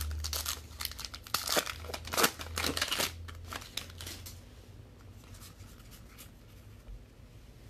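A trading card pack's plastic wrapper being torn open and crinkled: a quick run of rips and rustles over the first three seconds or so, then fainter handling.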